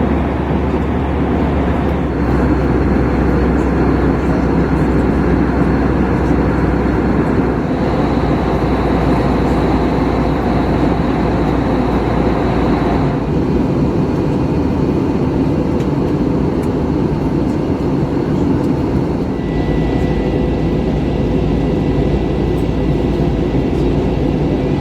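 Airbus A321 cabin noise: the steady rush of engines and airflow heard from a passenger seat, with faint high whines that change pitch a few times.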